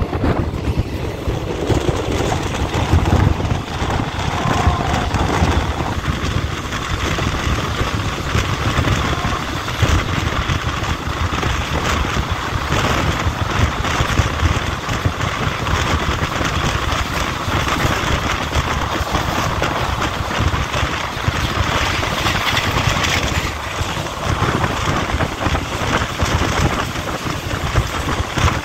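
Express passenger train running at speed, heard from an open carriage window: a steady rumble of wheels on the rails, with wind buffeting the microphone.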